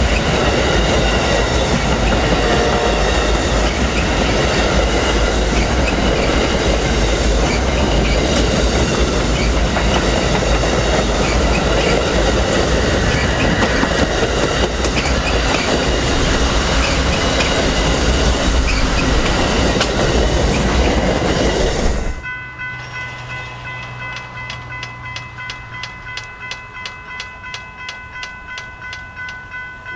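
Amtrak passenger cars rolling past close by: a loud, steady rumble of wheels on rail. About three-quarters of the way in it cuts to a railroad grade-crossing warning bell ringing in rapid, even dings.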